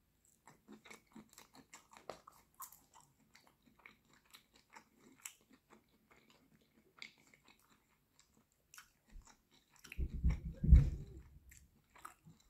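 Chewing and biting on cooked cocktail shrimp: a run of small smacking mouth clicks. About ten seconds in comes a louder low thumping that lasts around a second.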